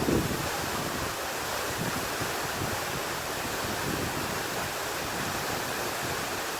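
Steady rushing water, an even hiss with no let-up.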